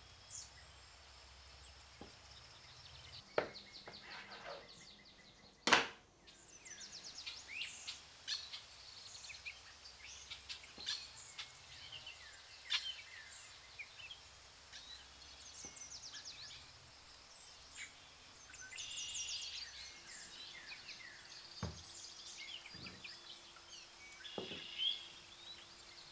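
Birds chirping and trilling repeatedly in the background, with a few sharp knocks, the loudest about six seconds in. A faint steady hum sets in near the end.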